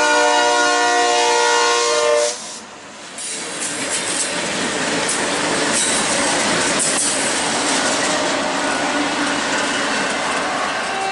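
Locomotive air horn sounding a chord of several notes, cutting off about two seconds in. Then the steady rumble and rail noise of a train rolling past, with a few sharp clanks.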